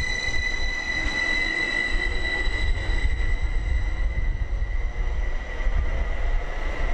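Greater Anglia Class 755 bi-mode train moving along the platform: a steady high-pitched whine over a low rumble.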